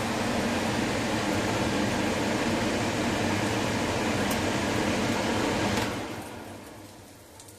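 Steady mechanical hum with a rushing noise, like a fan or air-conditioning unit running, fading away about six seconds in.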